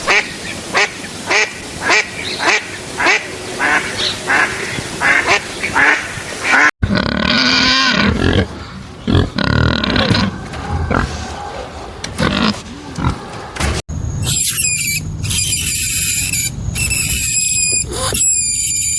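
Three different animal recordings in turn. First comes a rapid series of calls at about two a second, then lower calls that bend in pitch, and from about 14 seconds in, high, shrill calls.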